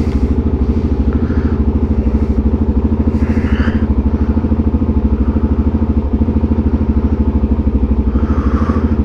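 Suzuki DR-Z400SM's single-cylinder four-stroke engine idling steadily, an even beat of a dozen or so firing pulses a second.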